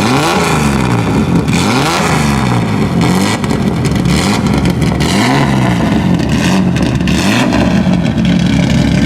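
Rally car engine being revved repeatedly: its pitch climbs and falls back about every second or two.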